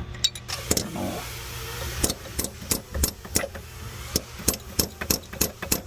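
Hammer driving a steel chisel against the old oil separator outlet tube in a 3.0L Duratec engine, in quick light metallic strikes, about four a second through the second half, to collapse the tube so it can be pulled out.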